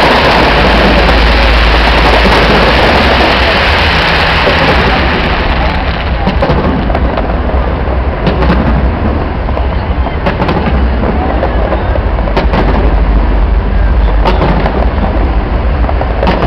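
Fireworks finale going off in a dense, continuous barrage: a steady wash of crackle and low rumble, with many sharp bangs standing out from about five seconds in.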